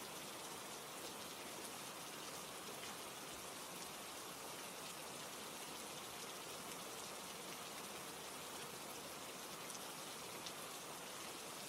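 Steady rain, an even hiss with a few faint scattered ticks.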